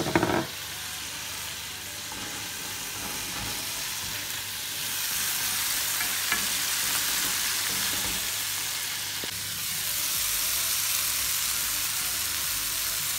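Onions frying in hot oil and soy sauce in a metal pan, sizzling steadily while a wooden spoon stirs. The sizzle grows louder about five seconds in, and a brief knock sounds right at the start.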